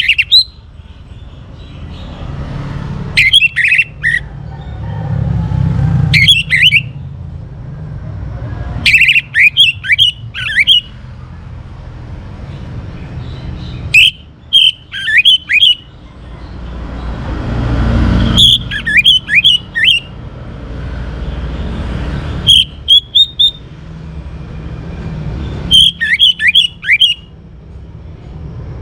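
Young orange-headed thrush singing in short bursts of quick, high, sweeping notes, about seven phrases a few seconds apart. A low rumble of passing traffic swells and fades underneath.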